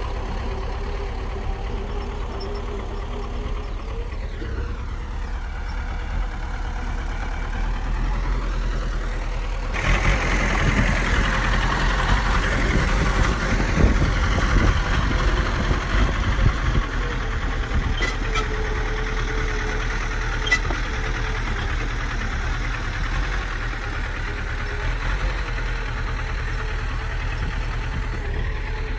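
Bulldozer's diesel engine running steadily, its pitch dipping and rising; about a third of the way in it turns suddenly louder and harsher for several seconds, as when the machine works under load, then settles back. Two faint clicks come later.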